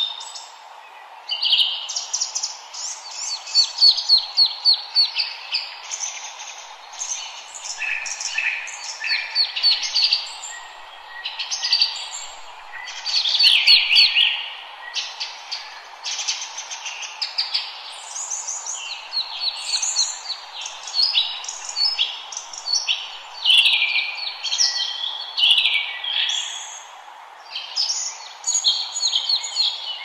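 Forest songbirds singing: several birds overlapping in quick series of high chirps and trills, some runs falling in pitch, over a steady low hiss.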